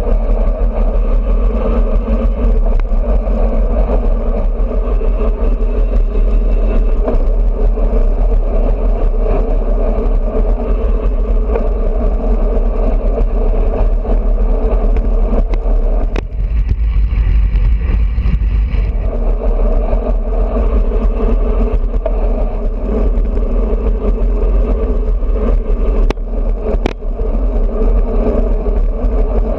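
Steady wind rush and road noise from a road bicycle ridden at speed, picked up by a GoPro camera's microphone with heavy low buffeting. There are a few sharp clicks about halfway through and near the end.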